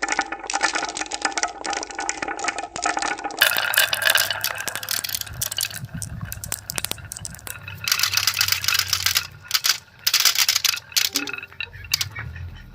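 Rapid, dense rattling and clicking. About three and a half seconds in it changes abruptly to scattered clicks and rattles over a low hum.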